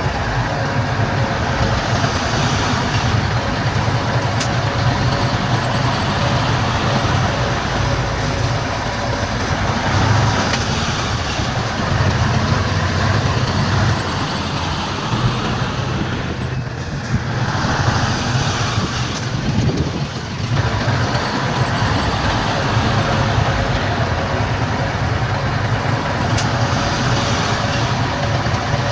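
Heavy diesel earthmoving machinery, a bulldozer and dump trucks, running steadily under load, with a faint steady whine over the low engine rumble.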